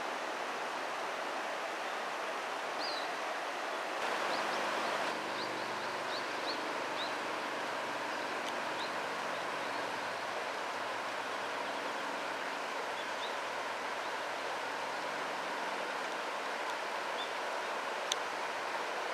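Steady rushing outdoor ambience, with a small bird chirping several times in the first half and a single sharp click near the end.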